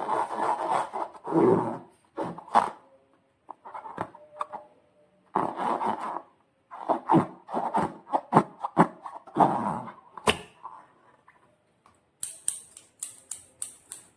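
Slime being worked by hand: irregular wet squishing and sticky, crackling clicks in short bursts, ending with a quick run of sharp clicks.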